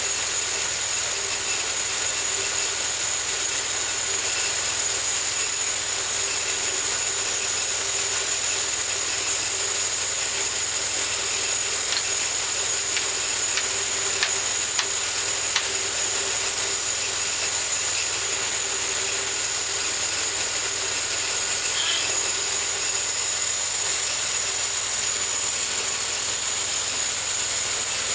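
Homemade bandsaw mill running steadily, engine and blade going with an even, unbroken whine, and a few faint ticks about halfway through.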